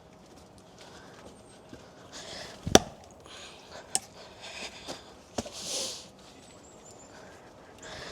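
A rock knocking an axe head deeper into a log to split it: three sharp knocks spread over about three seconds, the first the loudest, with some rustling between them.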